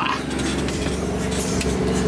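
A diesel engine running steadily, a constant low drone heard inside the truck's sleeper cab.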